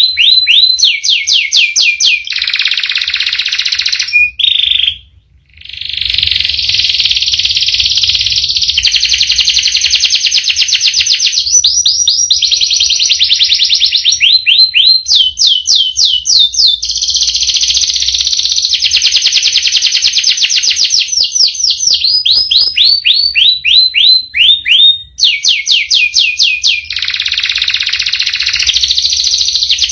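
Domestic canary singing a long, unbroken song of rapid rolls and trills, with a brief break about five seconds in.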